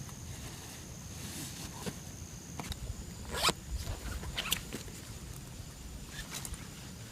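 A few short scraping rasps and clicks, the strongest about halfway through and another about a second later, like gear being handled. A steady high thin whine sounds underneath and stops about a third of the way in.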